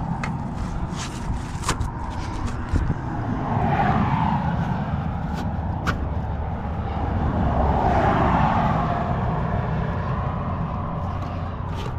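Road traffic on a highway: a steady rumble that swells twice as vehicles pass. A few sharp clicks and knocks sound over it.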